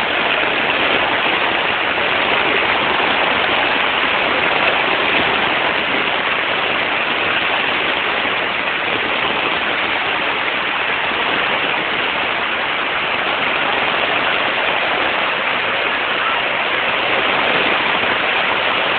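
Storm runoff of muddy water and sewage pouring down a street like a waterfall in heavy rain: a steady, even rush of water that does not change.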